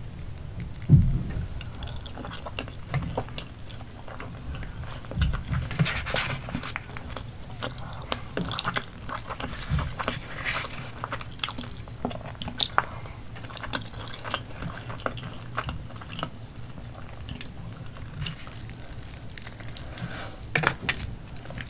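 Close-miked chewing and biting of roast potato and rice, with scattered clicks and scrapes of a metal fork on the food containers and a low thump about a second in.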